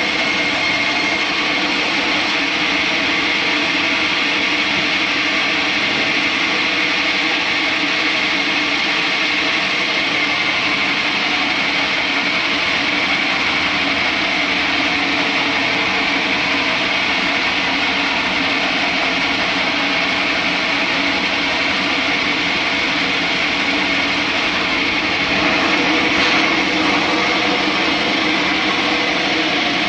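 Sawmill saw machinery running steadily with a continuous mechanical drone and whine. It grows slightly louder about 26 seconds in.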